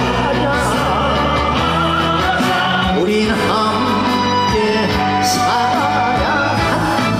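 Trot song performed live: a male singer's vocal, sung with a wide vibrato, over a band accompaniment with a steady bass line.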